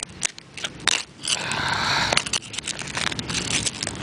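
Digging tool scraping and crunching through gravelly dirt, with sharp clicks of stones, and a longer scrape about a second and a half in.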